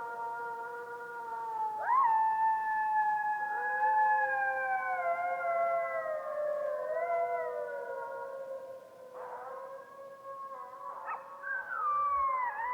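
A pack of wolves howling together: several long, overlapping howls that slide slowly down in pitch. Another voice joins with a rising scoop about two seconds in, and shorter broken calls come in near the end.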